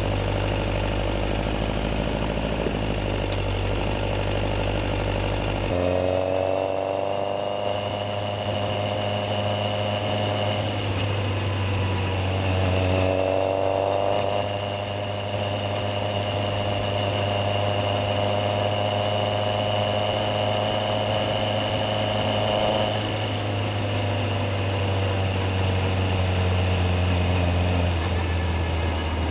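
Yamaha XJR1300's air-cooled inline-four engine idling, then pulling away about six seconds in. The engine note rises twice as it moves up through the gears, holds a steady cruising note, then falls as it slows near the end.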